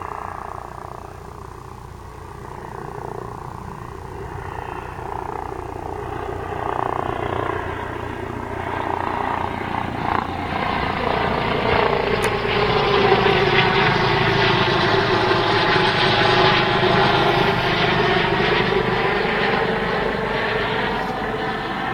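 Eurocopter EC135 P2+ helicopter in flight, its rotor and turbine sound growing steadily louder as it comes closer. It is loudest a little past halfway, then eases slightly near the end.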